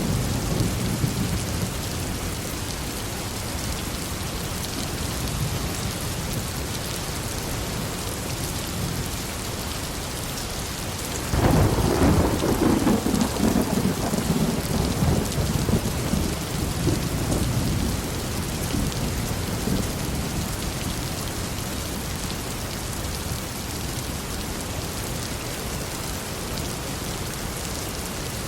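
Heavy rain falling steadily with thunder. The tail of a rumble fades out at the start, and a clap of thunder breaks suddenly about eleven seconds in, rumbling for several seconds before dying away.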